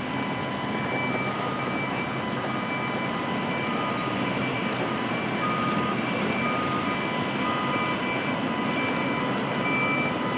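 Backup alarms on small construction machines: two alarms at different pitches, each beeping about once a second, over the steady running of the machines' engines.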